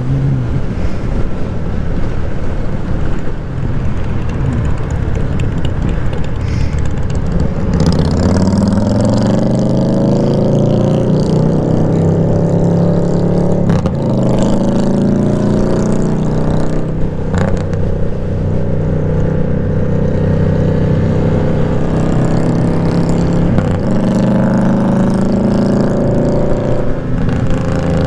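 Motorcycle engine pulling through the gears: its pitch rises, drops at each shift and climbs again, several times over, after a steadier stretch at first.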